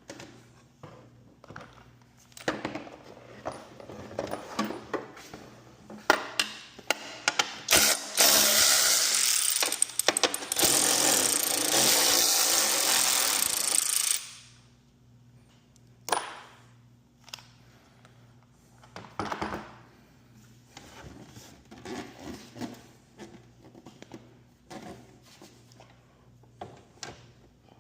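A power tool runs for about six seconds in the middle, the loudest sound, amid scattered knocks and clinks of metal garage door hardware being handled.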